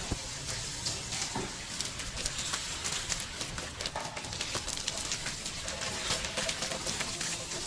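Many irregular light clicks and taps over a steady hiss, typical of hand-tool work on a building site.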